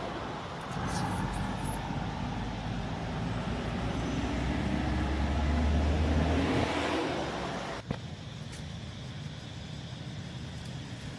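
Engine noise of a passing motor vehicle: a low rumble that builds to its loudest about six seconds in and then fades. A sharp click comes near eight seconds.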